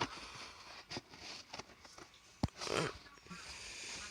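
Small handling noises of a model railroad boxcar and its cardboard box: scattered light clicks, one sharper click about two and a half seconds in, then a brief rustle.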